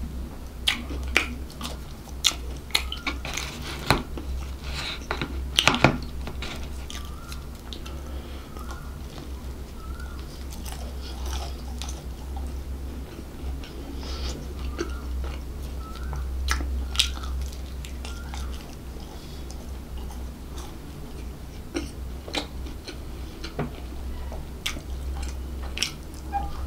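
Close-miked chewing and biting of a flaky pastry short eat, with irregular sharp crunches and wet mouth clicks that are busiest in the first six seconds. A low steady hum runs underneath.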